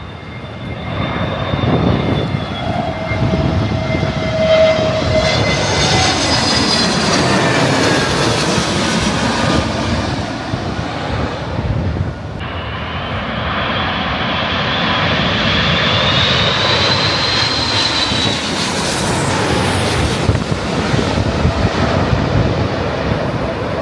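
Jet airliner engines on approach to land passing low overhead: a loud, steady rumble with a high whine that glides down in pitch. The sound changes abruptly about halfway through, and a second whine rises and then falls.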